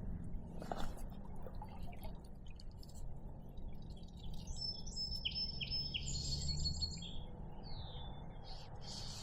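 A bird singing a short burst of high whistled notes and chirps about halfway through, over a steady low background rumble.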